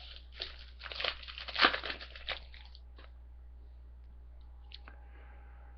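Wrapper of a trading-card pack crinkling and tearing as the pack is opened, in a quick run of rustles over the first two and a half seconds.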